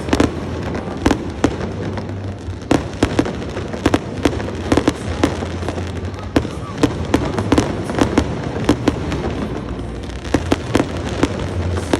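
Fireworks going off: a rapid, irregular string of sharp bangs, several a second, over a steady low rumble.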